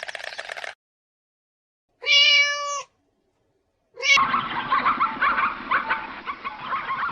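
A cat meowing once, a single steady call of under a second, about two seconds in. From about four seconds in comes a dense, scratchy, unpitched sound that goes on to the end.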